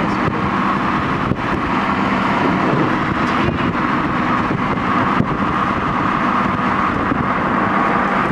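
Steady road and wind noise of a moving car, heard from inside the vehicle, with a few faint clicks.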